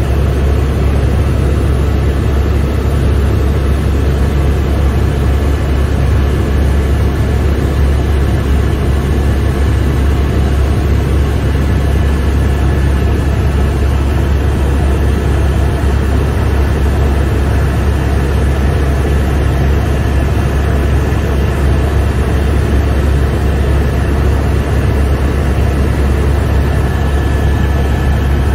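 Helicopter in steady cruise heard from inside the cabin: a loud, unchanging deep drone with a thin steady high tone above it.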